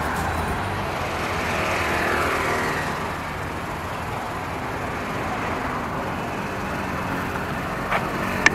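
Street traffic: vehicles passing on a road, running steadily, with a brief sharp sound near the end.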